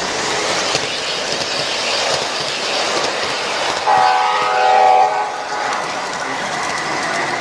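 O-gauge model train running on a show layout, its sound system giving one horn blast of about a second, about four seconds in, over steady running noise.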